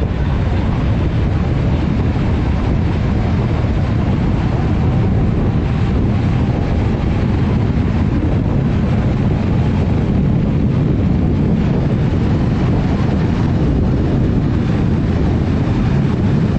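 Steady, loud wind rushing and buffeting on the microphone, with a heavy low rumble, as heard while riding a fast electric bike.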